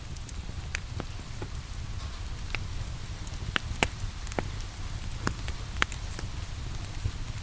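Wood fire crackling, with irregular sharp pops, the loudest a few seconds in, over a steady hiss of rain and a low rumble.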